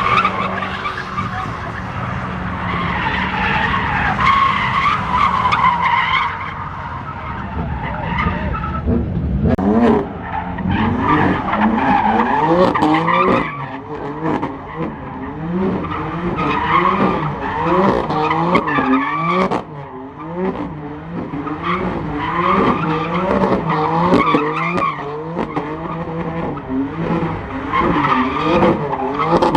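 Car drifting: tyres squealing continuously. From about a third of the way in, the engine's revs rise and fall over and over as the throttle is worked.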